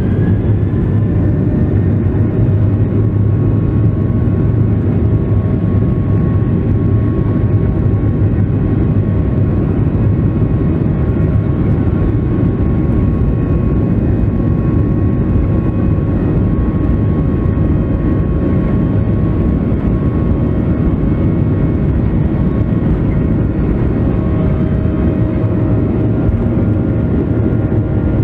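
Boeing 737-700's CFM56 jet engines heard from inside the cabin: a steady loud rumble with several thin, steady whining tones above it.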